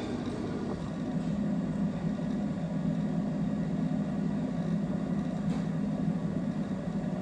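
Coleman Evcon gas furnace running with a steady low hum from its draft inducer and burners, which grows slightly about a second in as the burners light off the newly replaced igniter.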